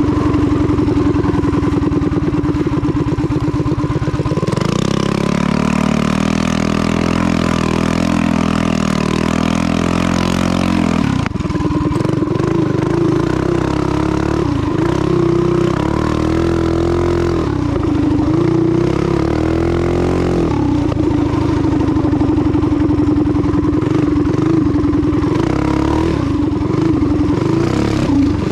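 Custom vintage mini bike's small single-cylinder engine, fitted with a Wildcat WC22 carburetor, running and being revved. About four seconds in the revs climb and hold for several seconds, then drop sharply back. The engine revs up again briefly later on.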